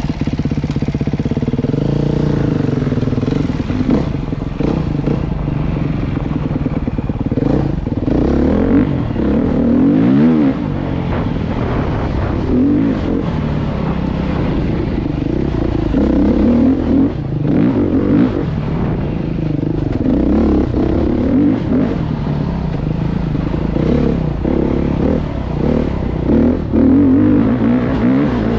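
Beta dirt bike engine being ridden, revving up and down over and over as the rider works the throttle, with occasional knocks and clatter.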